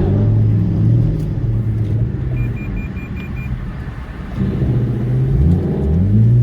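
2016 Ford Mustang GT's 5.0-litre V8 running through a loud straight-piped exhaust with an X-pipe and the resonators deleted. It eases off around the middle, then climbs in pitch as it accelerates near the end. A quick series of short electronic beeps sounds around the middle.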